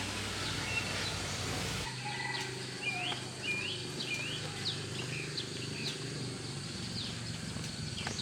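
Birds chirping: short, hooked calls, a run of them about three seconds in, then scattered ones, over a steady low hum. The sound changes abruptly about two seconds in.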